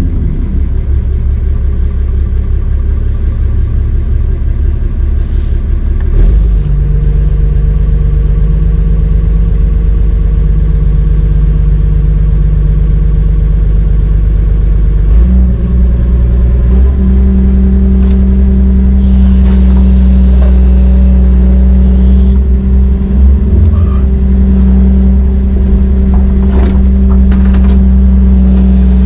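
Heavy diesel engine running hard under load. Its note shifts about six seconds in and steps up again about fifteen seconds in, with a brief hiss around twenty seconds in.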